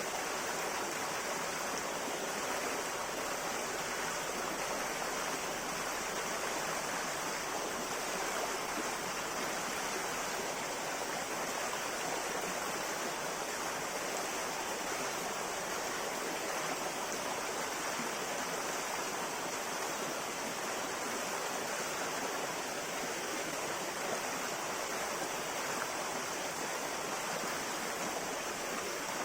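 A river flowing: a steady, even rush of water with no breaks or changes.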